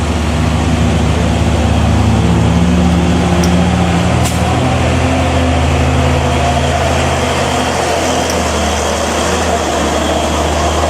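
Large truck engine running steadily with a low hum, its pitch shifting a little as it goes.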